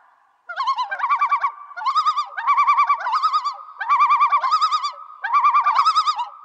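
Bird-like calls: five phrases of fast warbling trills, separated by short pauses.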